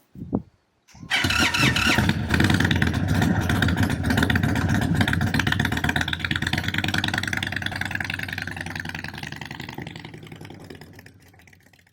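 A 2023 Indian Chief Bobber's big V-twin starts up abruptly about a second in and runs loud through its aftermarket exhaust, then gradually fades away over the last few seconds.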